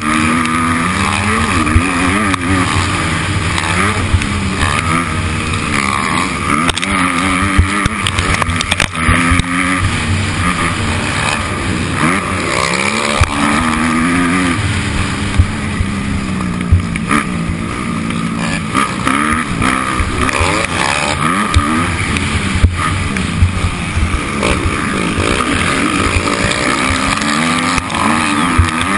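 Motocross bike engine revving hard and falling back over and over, its pitch rising and dropping with each throttle blip and gear change, over a constant low rumble.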